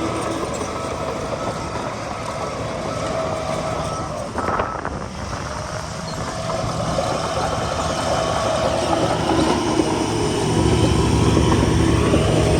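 Heavy diesel earthmoving machinery running with a steady engine drone and whine, a brief hiss about four and a half seconds in, and the engine working harder and louder from about ten seconds in.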